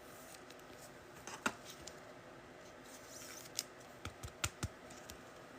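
Trading cards and packs being handled on a table: a few light clicks and taps, one early and a quick run of them a little past the middle.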